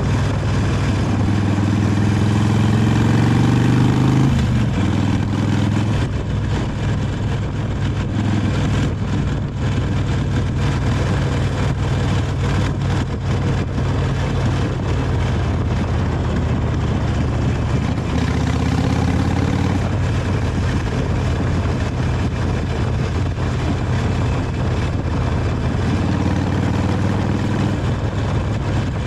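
Harley-Davidson 883 Iron's air-cooled V-twin with its stock exhaust, heard while riding. Its pitch rises under acceleration for the first four seconds, then drops suddenly, as at a gear change or throttle-off. It runs steady, then climbs again twice, near the middle and near the end.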